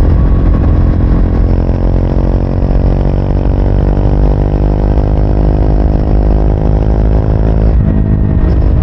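Triumph Speed 400's single-cylinder engine running as the bike rides along, holding a fairly steady pitch through most of the stretch.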